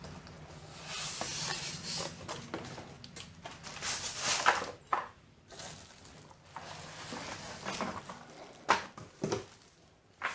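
Hands unpacking a boxed speaker: irregular rustling of packaging with several sharp knocks and clatters, the loudest about halfway through and a few more near the end.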